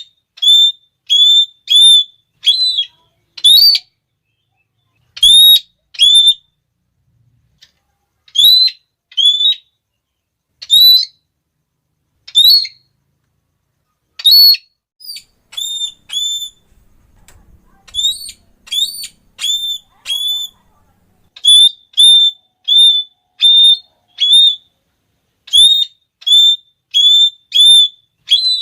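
Red-cheeked parrot (Geoffroyus geoffroyi) giving its shrill, high 'klee' calls, short notes repeated in quick runs of several with brief pauses between runs.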